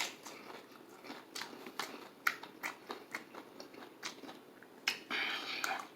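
Close-up chewing of crispy fried chicken, a series of short crunches and crackles from the breading and skin.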